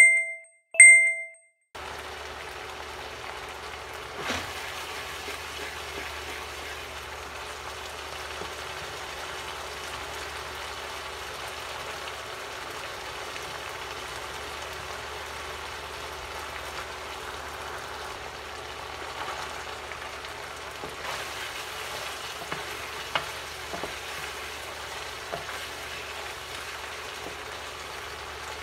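Two quick bright chime dings from a subscribe-button sound effect. Then the onion, garlic and chorizo sauce sizzles steadily in a nonstick frying pan, with a few light knocks as carrot goes in and a wooden spatula stirs.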